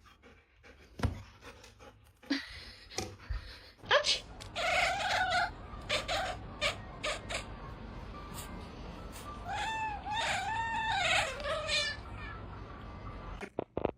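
A cat meowing several times, with a quick run of three drawn-out meows about two thirds of the way through. Scattered clicks and knocks come in between.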